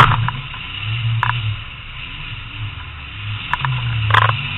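Demolition derby car's engine running inside the cabin, its low rumble swelling about a second in and again near the end, with sharp knocks at the very start and near the end.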